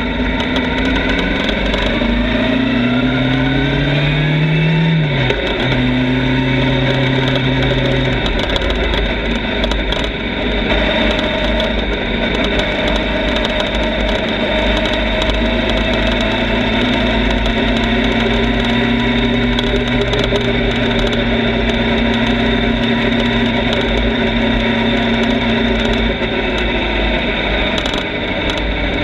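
Motorcycle engine pulling up in revs for about five seconds, dropping sharply at a gear change, then running at a steady speed for the rest.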